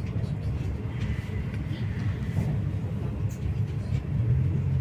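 MAZ-215 articulated city bus running, heard from inside the passenger cabin: a steady low engine and road rumble, with a faint thin high whine from about a second in to halfway through.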